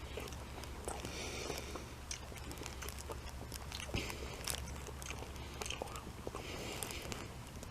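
A person chewing a mouthful of raw broccoli floret and cheese, with small irregular crunches and mouth clicks over a low steady hum.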